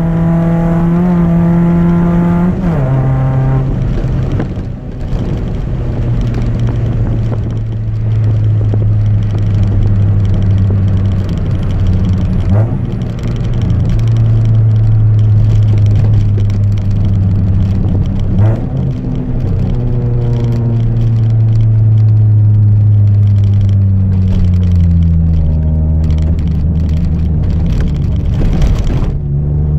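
Loud exhaust note of a Chevrolet Celta 1.0 four-cylinder engine breathing through a 4-into-1 header and a straight two-inch exhaust without mufflers. The revs drop sharply about two and a half seconds in, then hold steady for long stretches, rising and falling again in the last ten seconds.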